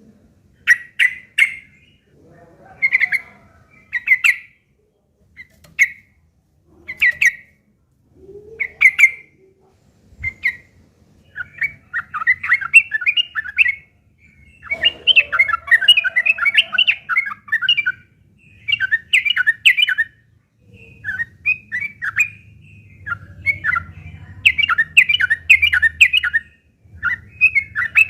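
Yellow-vented bulbul (trucuk) calling: short bubbly notes one at a time at first, then from about eleven seconds in, long runs of fast, rough chattering. This is the harsh, agitated chatter of a bulbul squaring up to fight.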